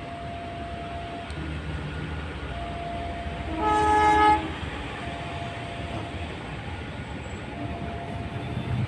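Train horn sounding one short blast of under a second, a chord of several tones, about halfway through. Around it a train's rumble builds toward the end, with a steady tone that sounds on and off every couple of seconds.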